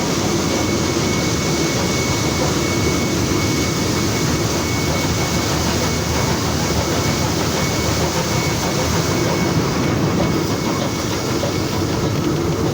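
Inside the cab of NSW 59 class steam locomotive 5917 under way: steady, loud running noise of the locomotive. A thin steady high tone runs through most of it and fades in the last few seconds.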